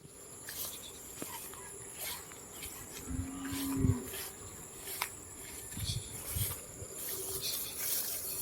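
Insects chirring steadily in a rural field, a constant high-pitched drone, with scattered light clicks and a short low tone lasting under a second about three seconds in.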